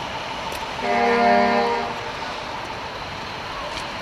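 A single horn blast of several blended steady notes, lasting about a second, sounded shortly after the start, over a steady outdoor background hiss.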